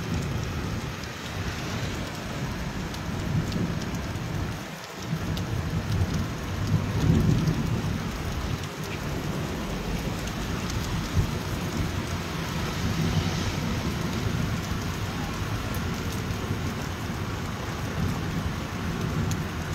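Heavy rain falling steadily on a flat concrete rooftop standing in water: a continuous hiss with scattered drop ticks, over a low rumble that swells about six to eight seconds in.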